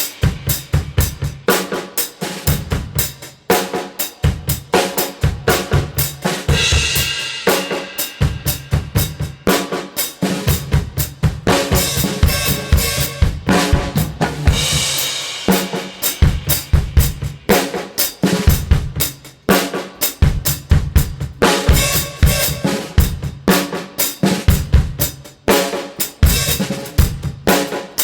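Drum kit playing a steady beat: bass drum and snare hits, with crashing cymbal washes about every eight seconds, heard as a mixed recording.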